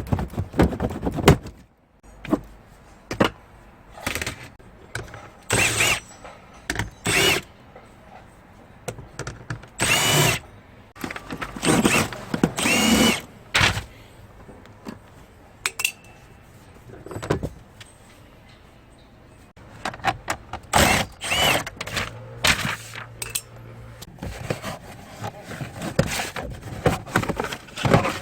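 Power drill run in many short bursts, some with a rising whine, with clatter from work on the car's dashboard between them.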